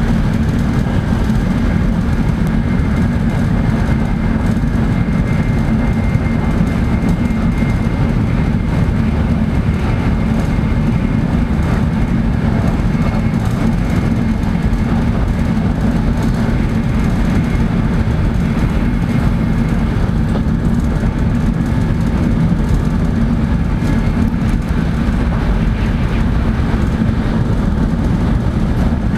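Shinkansen bullet train running at speed, heard from inside the passenger cabin: a steady, even low rumble.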